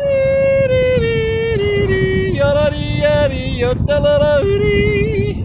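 A single voice singing a wordless, yodel-like melody: a long held high note that steps down in pitch, then a run of short notes, over steady low background noise.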